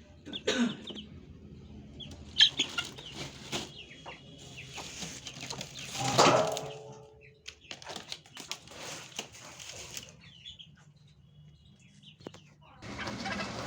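Chickens clucking and flapping their wings, with one louder pitched call about six seconds in. A steady noise starts near the end.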